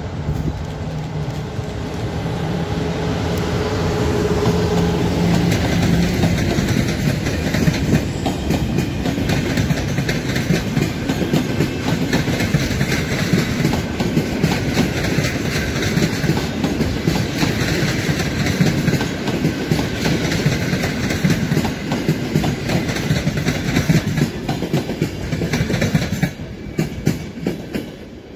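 EP09 electric locomotive and its train of passenger coaches passing by. It opens with a steady hum, then the coaches rumble past with their wheels clicking over the rail joints. The sound drops away suddenly near the end as the last coach goes by.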